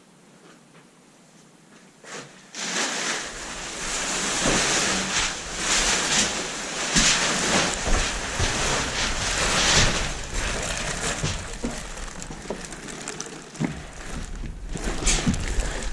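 Wind buffeting the microphone outdoors: a gusting rumble and rush that starts suddenly a couple of seconds in and rises and falls unevenly.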